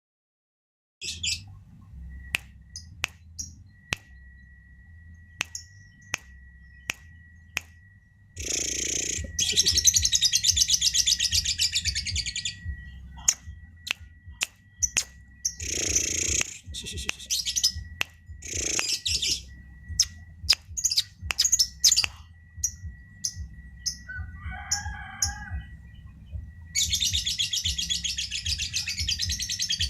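Blue-crowned hanging parrot (serindit) calling: sharp, high single chips and several bursts of rapid, shrill trilling, starting about a second in. A faint steady high tone and a low hum run underneath.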